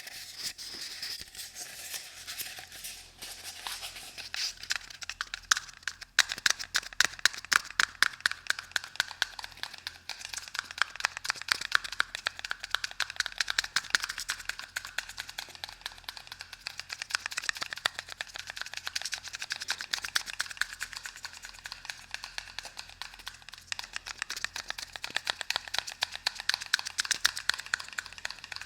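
ASMR trigger sounds: rapid, close-miked tapping and crackling, a soft rustle at first, then a dense run of sharp ticks from about six seconds in.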